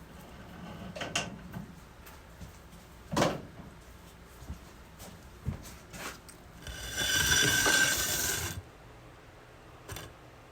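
Handling noises while a skinned otter carcass is hung up and the filming phone is repositioned: scattered knocks and clatter, the loudest a single knock about three seconds in, then a squeaky scrape lasting about two seconds.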